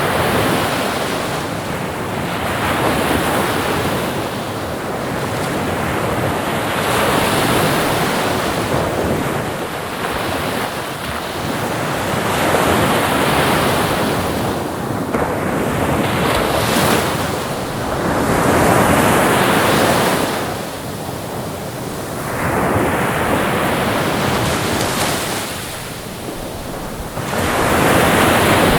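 Ocean surf: waves breaking and washing up, swelling and falling back every few seconds.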